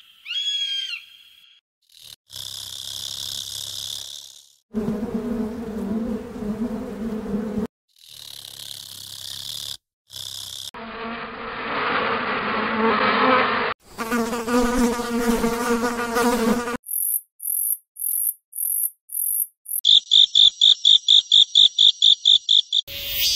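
A run of short animal-sound recordings cut one after another: several buzzing, humming drones, then rapid, evenly pulsed high chirping trills in the last few seconds.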